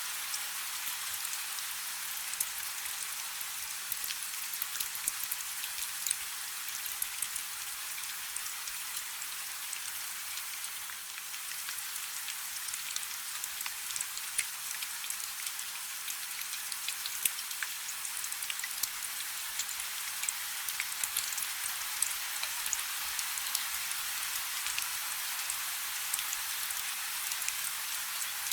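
Steady rain falling on a river: an even hiss made of countless small drop ticks.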